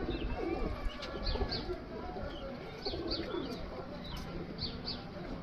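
Several pigeons cooing, their low coos overlapping one another, with short high chirps scattered through.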